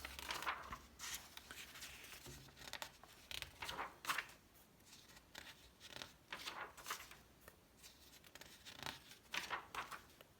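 Magazine pages being handled and turned: a string of faint, irregular paper rustles and crinkles.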